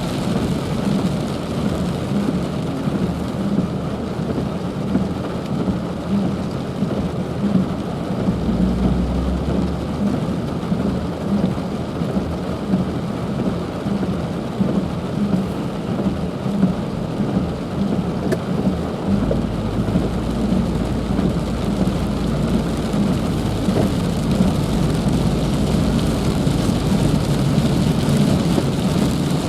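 Heavy rain falling steadily, with a low rumble that comes in briefly about eight seconds in and again from about two-thirds of the way through.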